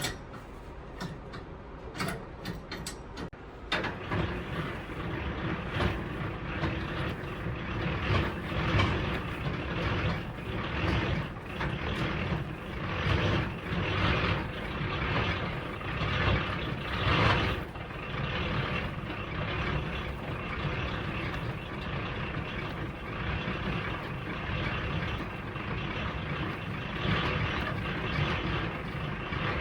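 A heavy truck running, a steady rumble with road and cab noise that sets in about four seconds in, after a few light clicks.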